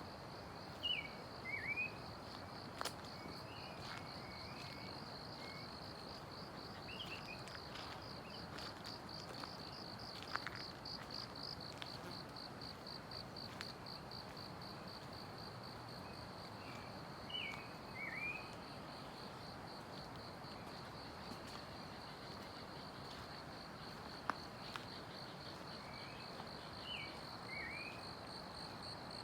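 A continuous high-pitched insect trill of rapid, even pulses, with a bird giving a short two- or three-note call a few times.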